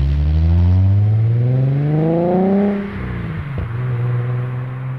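Car accelerating away hard: the engine note climbs steadily for nearly three seconds, drops sharply at a gear change, then runs on at a steadier pitch as the car draws off.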